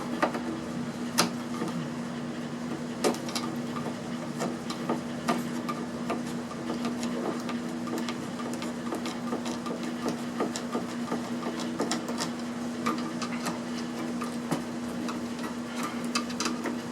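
Irregular small clicks and taps of hand tools working on hex bolts in the casing of a piece of electronics being taken apart, over a steady low hum.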